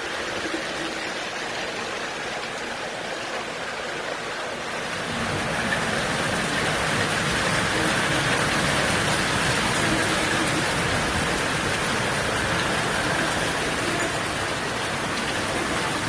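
Heavy rain pouring down steadily onto waterlogged ground, a dense hiss of falling water that grows louder about five seconds in.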